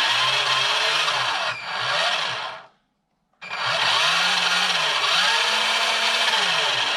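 RC semi truck's electric drive motor and gearbox whirring under throttle, the pitch rising and falling as the speed is varied. It runs twice, stopping briefly a little under halfway through: forward, then reverse.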